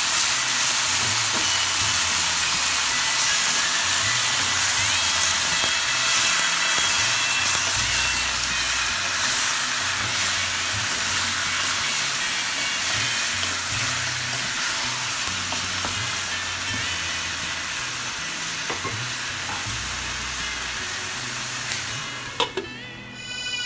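Raw meat chunks and sliced onions sizzling in hot oil in a large aluminium pot, stirred and turned with a wooden spoon. Near the end the sizzle falls away, with a couple of knocks.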